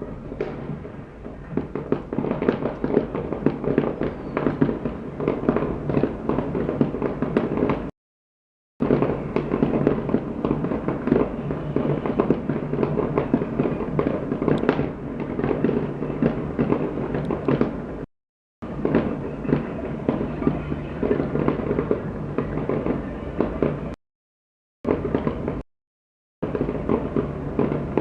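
Fireworks display: a dense, continuous run of bangs and crackling bursts. The sound cuts out abruptly to silence four times for under a second each.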